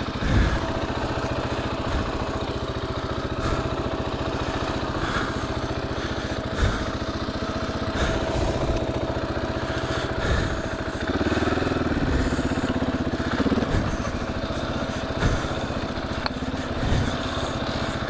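KTM 500 EXC-F dirt bike's single-cylinder four-stroke engine running on a rocky trail, its note rising and falling with the throttle about two-thirds of the way in. Several sharp knocks come through as the bike goes over rocks.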